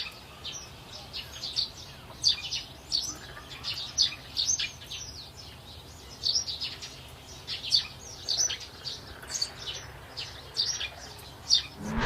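Small birds chirping: many short, high chirps, most sliding downward in pitch, over a faint low hum.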